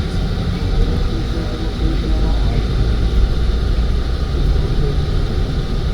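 Steady low rumble of a road vehicle on the move, engine and tyre noise running evenly without breaks.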